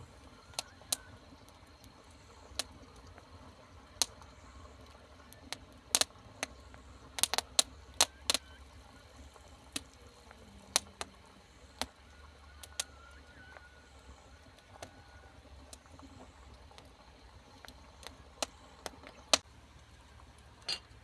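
Irregular sharp clicks and taps, some coming in quick clusters of two or three, over a faint steady background.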